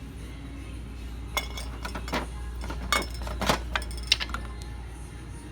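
Small knickknacks clinking about five times as they are handled on a shelf, a couple of the clinks ringing briefly, over a steady low hum.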